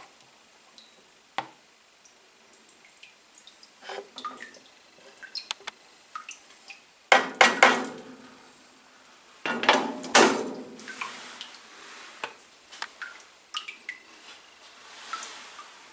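Metal tools and small metal parts clinking and clattering on a bench, with scattered light clicks and two louder bursts of clattering, about seven and about ten seconds in.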